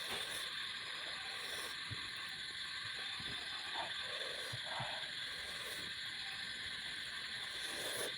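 Close-up eating sounds: soft chewing and mouth noises as fish curry and rice are eaten, a scatter of short quiet clicks and smacks over a steady background hiss.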